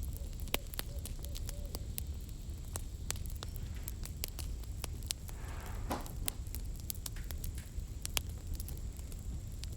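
Wood campfire crackling: irregular sharp pops and snaps over the low, steady rumble of the flames. A brief hissing rush rises and fades about halfway through.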